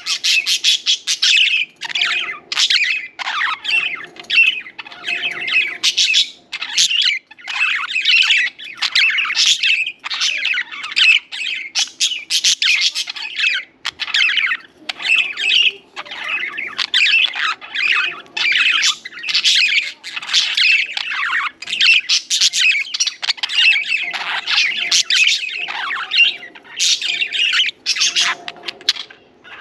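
Several budgerigars chirping and warbling almost without pause, a busy chatter of short rapid notes with brief gaps.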